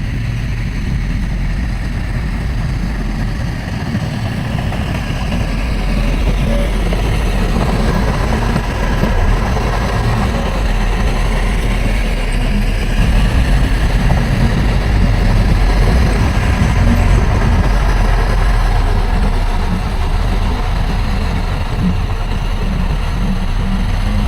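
Heavy diesel earthmoving engine running steadily, getting a little louder about six seconds in.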